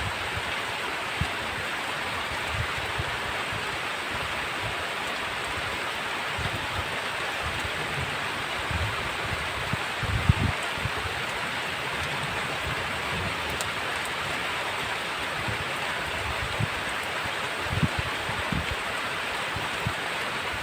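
Heavy rain falling with a steady, even hiss, broken by a few brief low thumps about halfway through and near the end.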